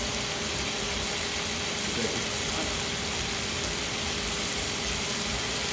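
Steady sizzle of a pan on the stovetop as deglazing wine reduces, over a constant low hum.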